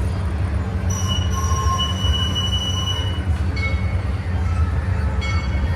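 Amusement-park train running slowly with a steady low rumble. Its wheels squeal on the rails in a high, steady squeal from about one to three seconds in, then in shorter squeaks later on.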